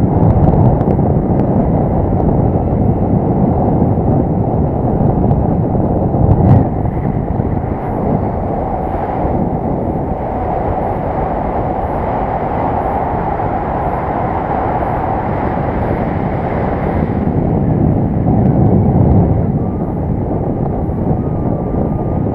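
Wind buffeting the microphone in flight under a paraglider: a loud, steady rumble that swells in gusts, with a brief sharp knock about six seconds in.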